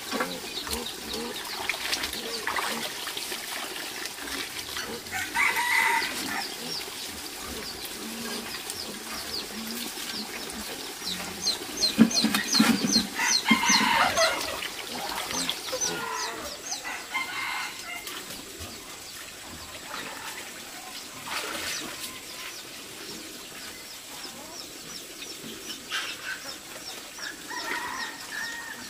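Chickens clucking, with roosters crowing several times and a quick run of high chirps in the middle.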